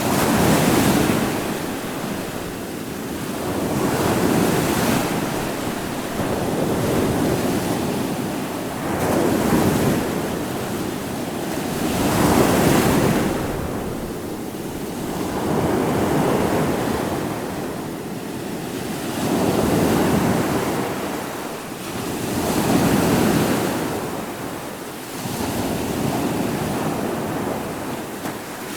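Ocean surf: waves breaking and washing in one after another, swelling and falling about every three to four seconds.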